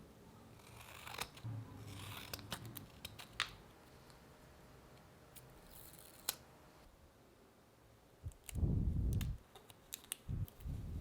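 Sharp clicks, snips and short scrapes of small hand work on bicycle crankset parts, then two louder, dull low thumps near the end.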